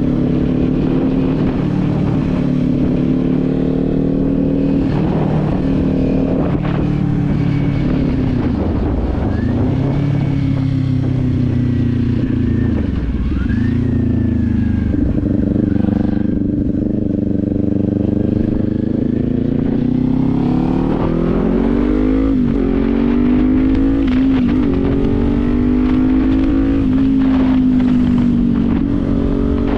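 Kawasaki Z400's parallel-twin engine running under way on the road, its pitch dipping briefly twice and then climbing in two sweeps as it accelerates through the gears. Wind rushes over the microphone throughout.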